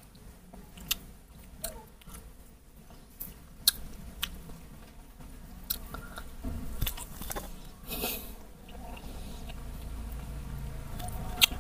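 A person chewing and biting into soft dragon fruit close to a clip-on microphone: irregular wet smacks and clicks of the mouth. From about six seconds in, a low rubbing and bumping on the microphone joins in.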